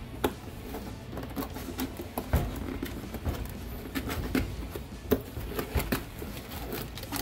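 A cardboard fireworks kit box being opened and its contents handled by hand: irregular taps, knocks and rustles, with a few sharper clicks.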